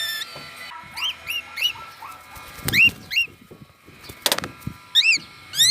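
Pet parrots calling: a run of short, clear chirps that sweep upward, coming every half second or so. A sharp knock sounds a little after four seconds in.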